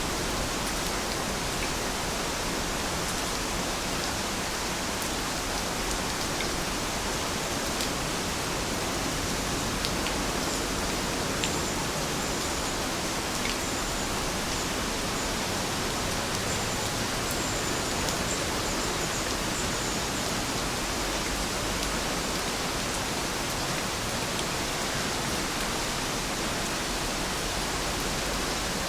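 Heavy rain falling steadily: a dense, even hiss with occasional sharper ticks of single drops.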